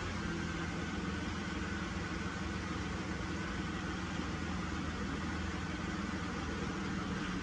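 Car engine idling steadily in gear, driving the raised front hub with no wheel on it, so the driveshaft spins freely. Unloaded like this, the CV joint with the torn boot makes none of the noise it makes when driving.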